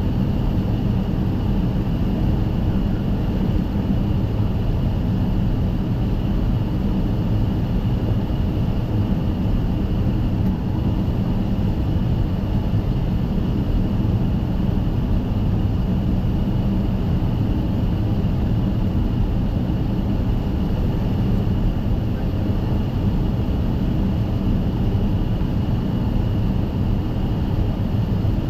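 Steady low rumble and hum on the flight deck of a Boeing 757-200 freighter rolling out after landing, with a thin, steady high-pitched whine above it.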